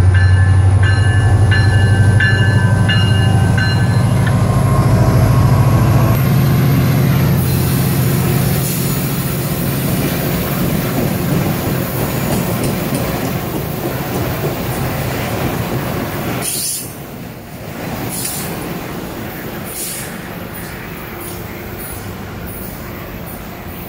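MARC MP36PH-3C diesel locomotive pulling a commuter train out, its engine making a loud low drone with a repeated ringing tone over it for the first few seconds. The bilevel coaches then roll past with steady wheel and rail noise, which fades as the train draws away.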